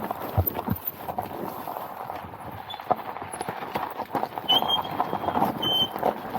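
Irregular knocks, clicks and rattles from a dual-sport motorcycle being rolled down a rocky hill with its engine not running, during a bump-start attempt on an engine that will not restart when hot.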